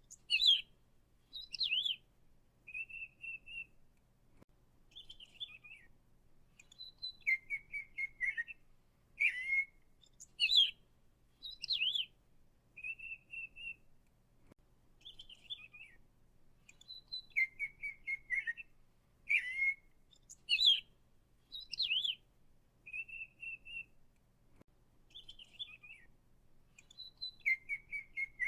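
Bird song: short chirps, trills and whistled notes in a set sequence of phrases that repeats about every ten seconds.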